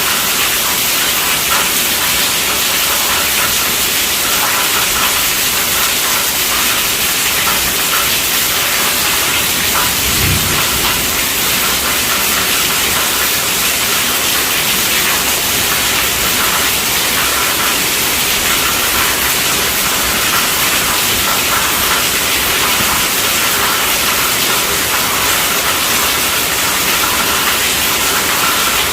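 Steady heavy rainfall, an even hiss that neither builds nor fades, with one brief low thump about ten seconds in.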